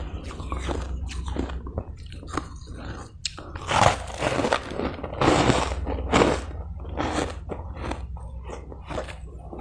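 A person biting and chewing soft, powdery ice close to the microphone: an uneven run of crunches, with the loudest bites about four, five and six seconds in.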